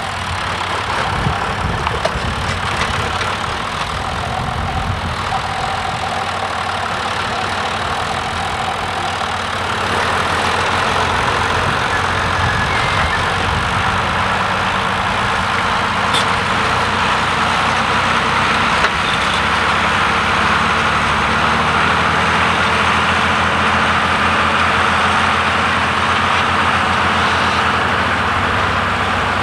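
John Deere 3350 tractor's diesel engine running steadily while ploughing, getting louder from about ten seconds in.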